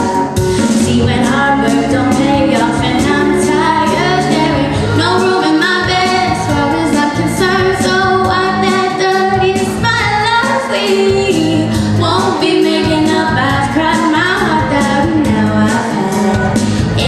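A woman singing a pop song over backing music with a steady beat.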